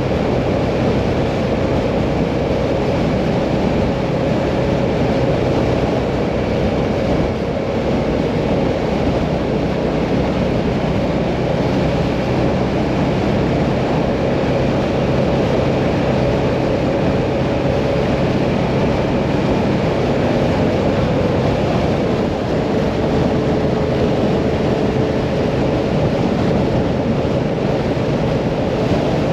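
Hyosung Mirage 650 V-twin motorcycle cruising at a steady speed: the engine runs with a steady note under a constant rush of wind and road noise, its pitch dropping slightly about two-thirds of the way through.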